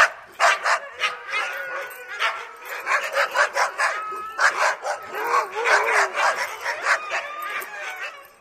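Dogs barking rapidly and excitedly, with drawn-out whining cries that rise and fall in pitch between the barks.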